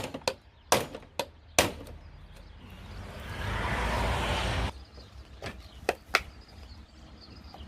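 A few sharp, separate knocks and clicks of metal tools on a push mower wheel during bearing removal, with a rushing noise that swells for about two seconds and cuts off abruptly midway.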